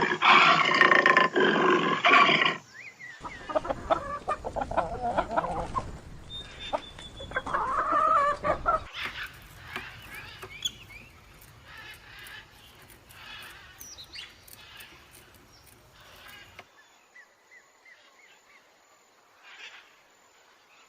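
Animal calls from several separate recordings cut one after another, with abrupt changes about three, nine and seventeen seconds in; the first is the loudest, and the later ones are fainter.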